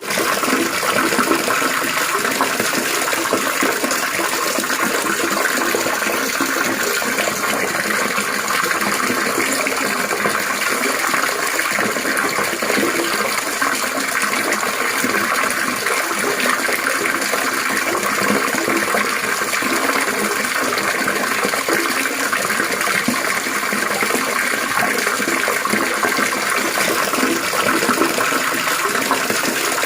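Trickling, splashing running water, going on steadily without a break.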